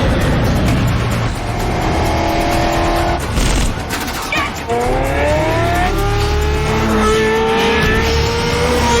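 Film car-chase sound mix: car engines revving and accelerating in rising pitch, with brief tyre squeals, over a music score with a steady low beat.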